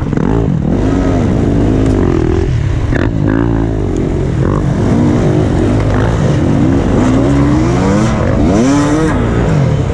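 Several enduro dirt bike engines revving close by, their pitch rising and falling over and over in short blips, with one sharper, higher rev near the end.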